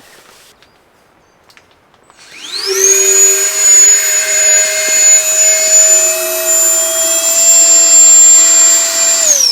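A small high-speed electric motor spins up with a rising whine about two seconds in, runs steadily with a high whistle over a lower hum, and begins to wind down with falling pitch at the very end.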